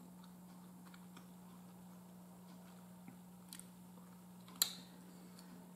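Quiet closed-mouth chewing of a mouthful of food, with a few soft clicks and one sharper mouth click about four and a half seconds in, over a steady low hum.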